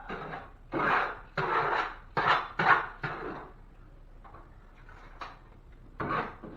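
Drywall work noises: a quick run of five or six short scraping and clattering strokes, then a pause and one more stroke near the end.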